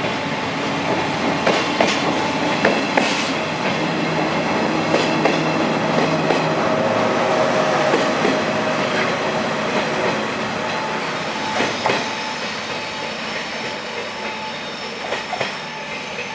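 24 series blue-train sleeper coaches rolling past at low speed, wheels clacking over rail joints and points, with a faint wheel squeal at times. The clatter eases as the last coach pulls away near the end.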